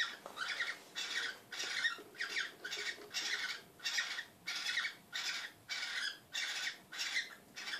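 Pet birds squawking, a steady run of short harsh calls, about two to three a second, as a pair mates.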